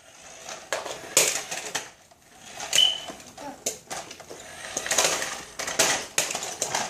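Toy vehicles clattering: irregular clicks and knocks of hard toys being handled, pushed and knocked together, with a brief high squeak about three seconds in.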